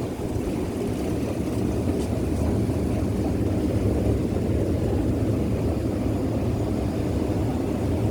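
A train's steady low rumble, growing a little louder in the first second and then holding even.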